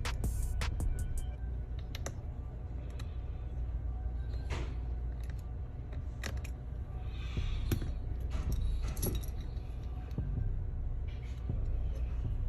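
Scattered small metallic clicks and taps of precision tools on a MacBook A2337's internal parts while a small bracket plate is being screwed down, over a steady low hum.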